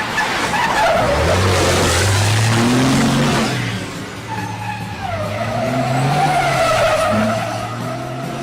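Tyres squealing over a truck engine running under load: a sudden loud skid at the start with a falling squeal, then a steady high-pitched squeal through the second half.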